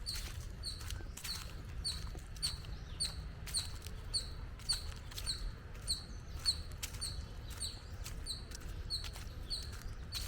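A bird repeating one short, high chirp at an even pace, about every 0.6 seconds, over footsteps and a steady low rumble.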